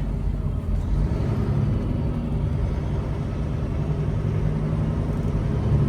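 Semi truck's diesel engine running steadily at low speed, heard from inside the cab, low-pitched and even.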